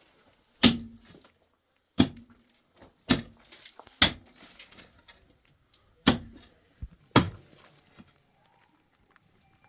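Six sharp knocks at uneven intervals about a second apart, each with a short ringing tail, then quiet near the end.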